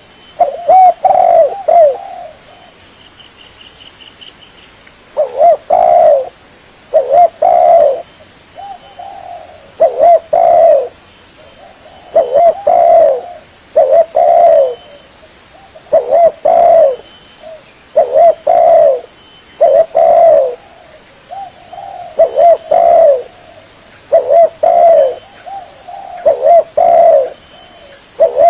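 Spotted dove (tekukur) cooing: phrases of two or three short coos repeated about every two seconds, with a pause of a few seconds near the start. This is the bird's song used as a lure call for trapping doves.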